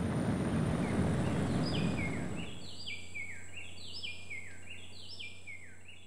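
A bird calling over and over, about once a second, each call a run of short whistled notes stepping down in pitch, over rainforest ambience with a thin steady high tone. A low rumble fades away in the first two seconds or so, and the whole fades down near the end.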